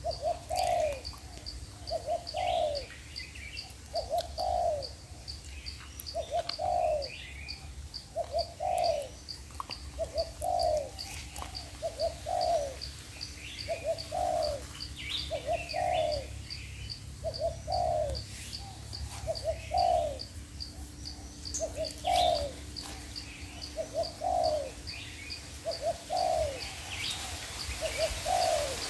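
Spotted doves cooing, a low phrase repeated about every two seconds.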